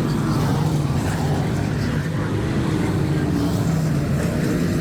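Dirt-track race cars' engines running together as the field circles the oval, a steady, dense engine drone whose pitch changes little.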